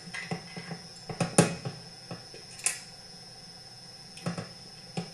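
Irregular clicks and knocks of small metal chainsaw parts and hand tools being handled on a workbench during reassembly, with the loudest cluster about a second and a half in.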